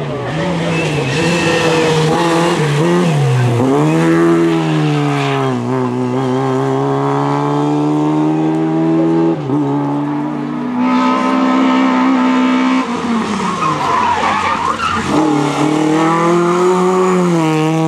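Lada rally car's four-cylinder engine running hard at high revs through corners. The revs drop and climb again several times as it shifts or lifts off, with tyre noise from the car sliding.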